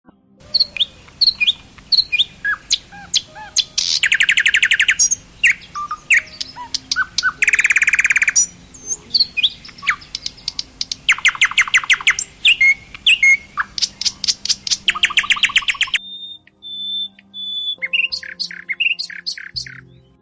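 Small birds chirping, with several bursts of fast, evenly repeated trilling notes. About three-quarters of the way in, the background drops out and a thin, held whistle and a different, quicker series of chirps follow.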